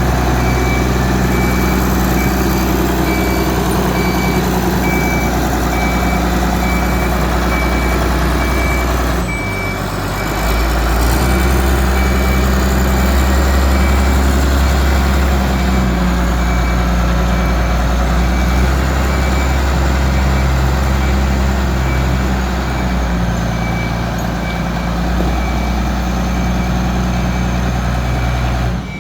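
Shantui motor grader's diesel engine running under test, with a high beeping alarm sounding in a steady repeated pattern. About ten seconds in the engine sound dips briefly, then picks up and runs louder.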